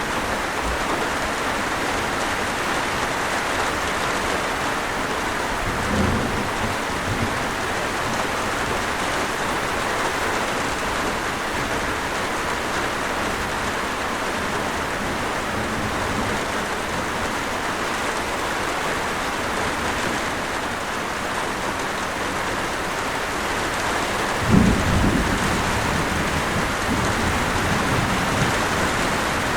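Steady, heavy rain falling. A low rumble of thunder comes about six seconds in, and a louder, longer rumble rolls through near the end.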